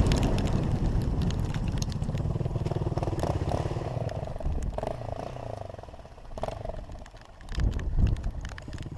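Dirt bike engine running close by with a fast, even pulse, dropping away about seven seconds in and rising again briefly near the end.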